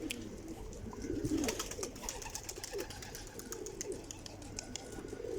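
Domestic pigeons cooing, several low rolling coos following and overlapping one another, with light clicks and taps scattered throughout.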